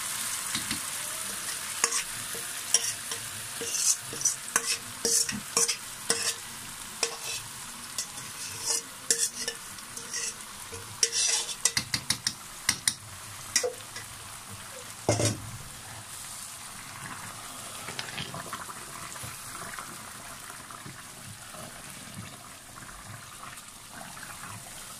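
Chili garlic paste sizzling in hot oil in a pan while a wooden spatula stirs it, scraping and knocking against the pan. The spatula strokes come thick and fast for the first fifteen seconds or so, then thin out, leaving a steady sizzle.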